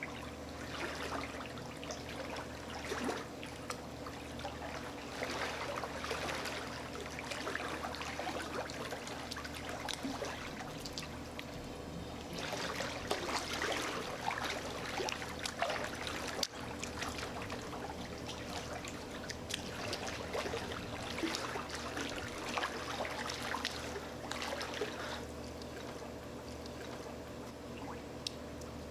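Pool water splashing and lapping as a person swims and moves through it, coming in uneven spells and strongest about halfway through, over a steady low hum.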